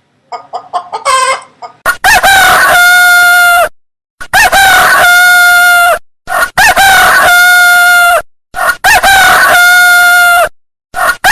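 Rooster giving a few quick clucks, then crowing loudly four times in a row, each crow rising and then held on a steady note, with another crow starting right at the end.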